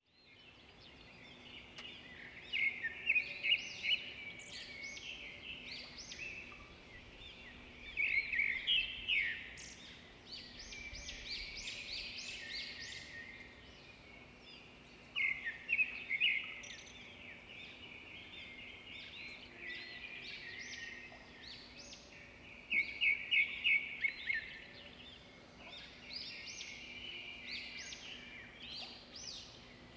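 Small birds chirping in quick runs of short, high notes that come in clusters every few seconds, over a faint steady hum.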